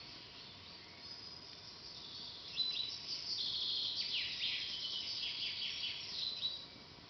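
Songbirds singing over a steady high hiss. A run of quick, downward-sweeping notes grows louder from about two and a half seconds in and fades near the end.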